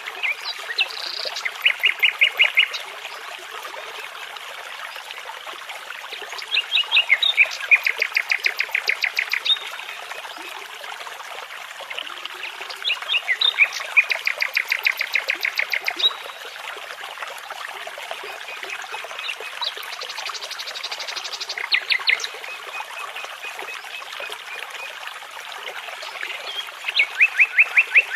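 A nightingale singing in five separate phrases spaced several seconds apart, each built from fast runs of repeated notes, some of them very high. A babbling brook runs steadily underneath.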